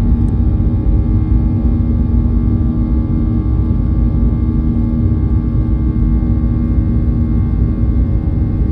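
Boeing 737-900's CFM56-7B turbofan engines running steadily: a loud, even rumble with a hum of several fixed tones that stays the same throughout.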